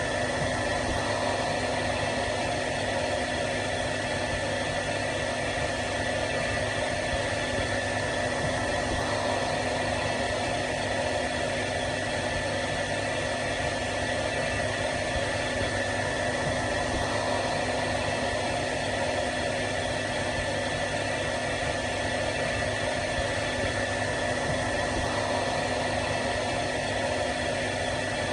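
Hair dryer running steadily: a constant rush of blown air over an unchanging motor whine.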